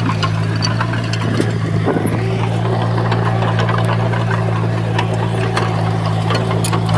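Diesel engine of heavy earthmoving machinery running steadily, with scattered short metallic clicks and clanks over it.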